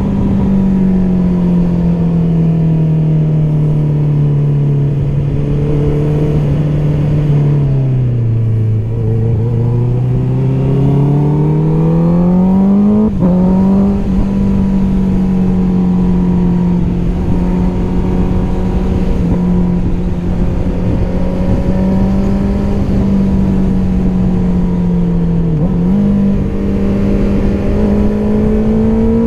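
Honda CBR650R's inline-four engine with an Akrapovič exhaust, running loud at steady revs under way. Partway through the revs fall away low and then climb back up, followed by a quick, sudden step in pitch as a gear is changed; a couple more brief steps come near the end.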